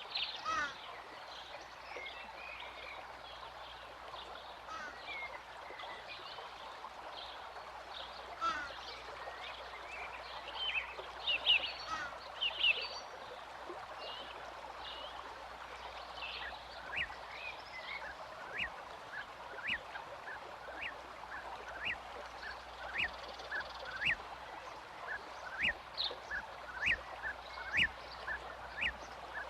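Birds calling over a steady outdoor background: varied chirps in the first half, then a run of short, repeated call notes about twice a second.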